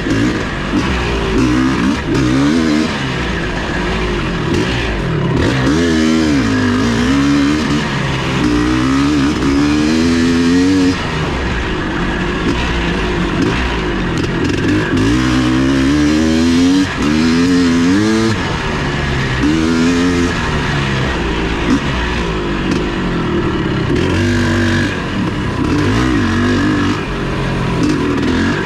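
Off-road racing motorcycle engine running hard throughout. Its note rises and falls again and again as the throttle is opened and closed, over a steady rush of noise.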